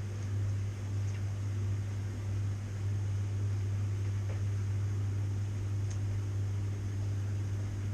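Washing machine running with a steady low hum over a hiss of noise, and a few faint ticks.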